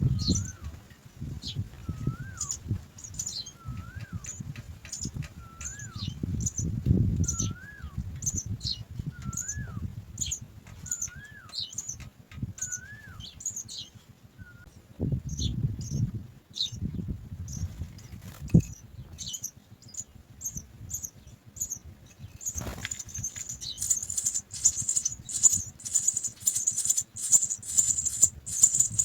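House sparrow nestlings giving high, short begging chirps, repeated about twice a second. About two-thirds of the way in they break into a rapid, dense chorus of cheeping. A lower rising-and-falling whistle repeats about once a second through the first half, with low rustling and thumps underneath.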